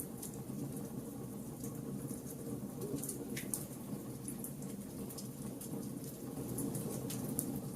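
Wood fire burning, with a steady low rush of flames and irregular sharp crackles and pops from the burning wood, a dozen or so, a louder pop about three seconds in.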